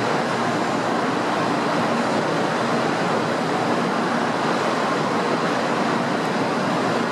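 Shinkansen bullet train pulling out of the platform, a steady rumbling hiss echoing in the station hall.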